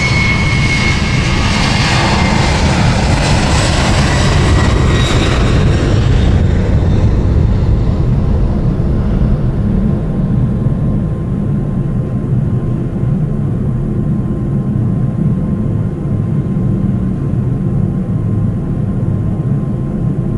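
Boeing 737-800's CFM56 jet engines heard from inside the cabin: a steady low rumble, with a high engine whine that fades away over the first eight seconds or so.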